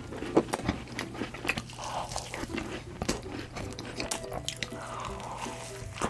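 Close-miked mukbang eating: a person biting and chewing cake, with scattered sharp clicks throughout.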